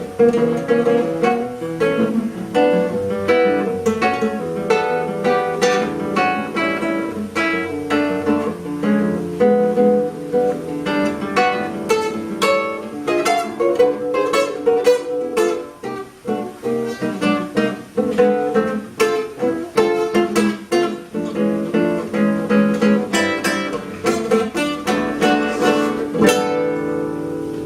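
Solo classical guitar playing a jazz-style piece: fingerpicked melody and bass lines, broken by bursts of quick strummed chords, and a chord left ringing near the end.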